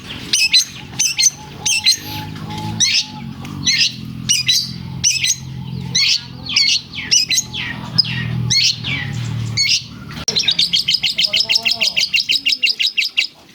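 Long-tailed shrike (cendet) singing hard, a rapid string of sharp, high chirps that carry imitated lovebird phrases, then a fast even trill over the last three seconds.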